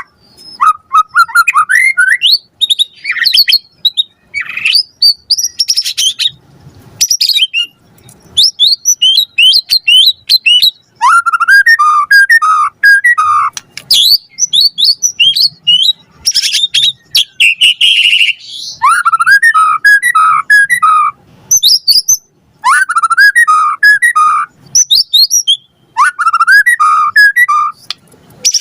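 White-rumped shama (murai batu) singing loudly: a varied song of quick whistles, trills and series of repeated rising notes, delivered in phrases a second or two long with short pauses between them.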